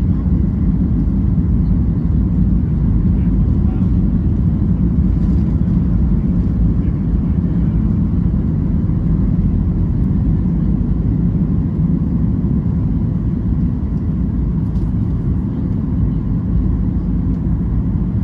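Steady low rumble of engine and airflow noise inside the cabin of a Boeing 737 MAX 8 airliner, with no change in level.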